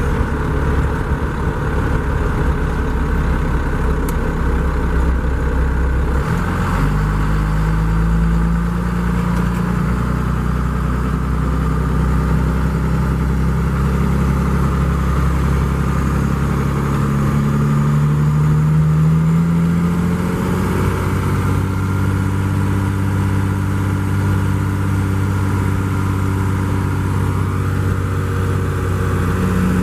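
Straight-piped 12-valve Cummins diesel in a Ford F700 running. Its note shifts about seven seconds in, climbs slowly in pitch for some twelve seconds, then drops and holds steady.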